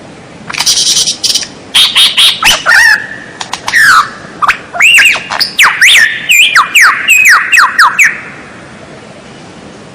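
White-rumped shama (murai batu) singing a fast, varied song: harsh, raspy notes first, then a quick run of loud whistled slurs rising and falling in pitch, stopping about eight seconds in.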